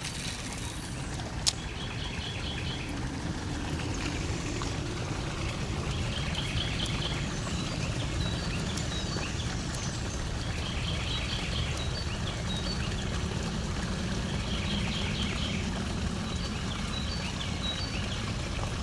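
Outdoor ambience: a bird repeating a short, rapid trilled phrase every few seconds over a steady low rumble, with a few faint high chirps and a single sharp click about a second and a half in.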